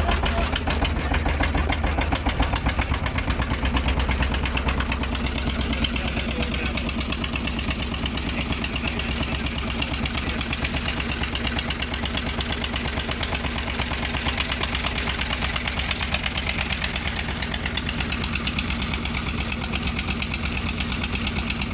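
A large engine running steadily for the whole stretch, with a fast, even beat.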